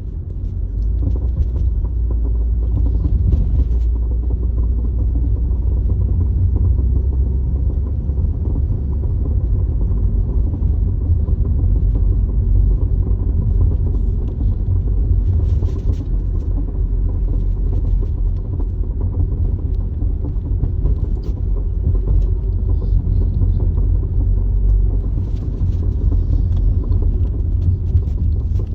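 Honda Accord CU2 on the move: a steady low rumble of road and running noise, with a few faint clicks or knocks scattered through it. The car has an unexplained noise from its right front suspension.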